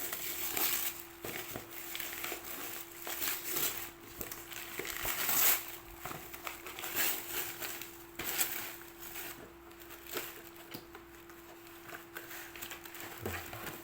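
Gift packaging rustling and crinkling in irregular bursts as it is handled and torn open, louder about five seconds in.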